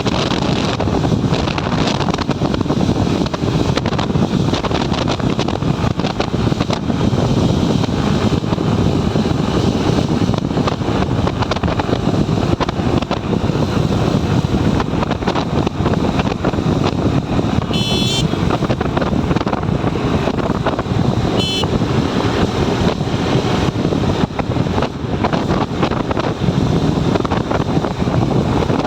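Wind rushing over a helmet-mounted camera on a moving motorcycle, with the engine running under it. Past the middle, two short high horn toots a few seconds apart.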